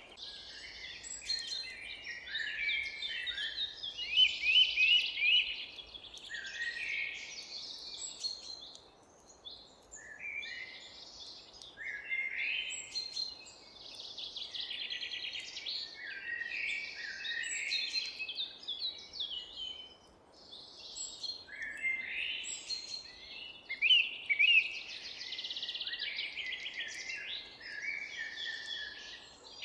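Forest songbirds singing and calling, many short chirping phrases overlapping one another, with brief lulls about a third and two-thirds of the way through.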